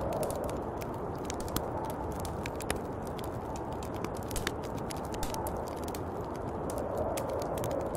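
Snowstorm wind blowing steadily, swelling gently near the start and again near the end, with irregular sharp crackles and ticks scattered throughout.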